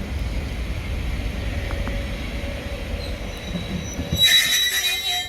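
Heritage diesel train running with a steady low rumble, then a loud high-pitched wheel or brake squeal starting about four seconds in that cuts off suddenly.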